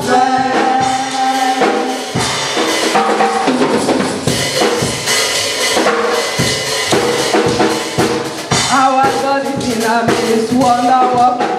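Live worship band music with a drum kit playing a steady beat of bass drum and snare, with held notes from voices or keyboard near the start and again toward the end.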